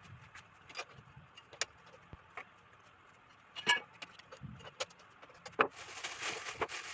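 Scattered clicks and metallic clinks of speaker parts and tools being handled during disassembly, the loudest a ringing clink a little after halfway, followed near the end by about a second of rasping, rustling noise.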